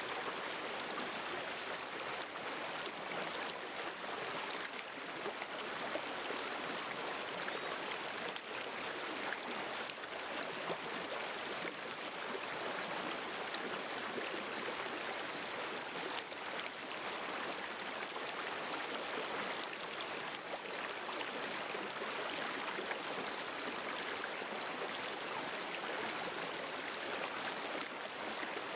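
River stream water flowing and babbling steadily, a continuous rushing splash with no pauses.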